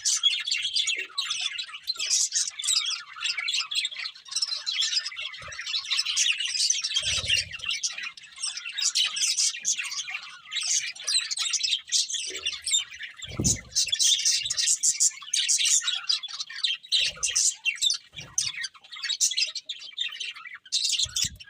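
Budgerigars chattering and warbling without a break: a dense, busy stream of quick chirps and squeaky notes. A few short low thumps sound through it, the clearest about thirteen seconds in.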